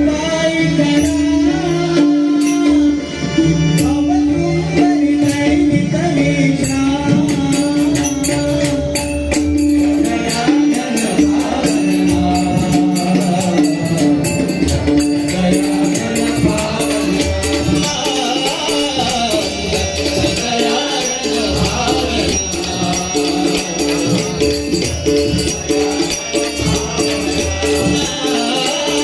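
Marathi devotional abhang music: a steady held drone under jingling hand percussion, with singing coming in more strongly about ten seconds in.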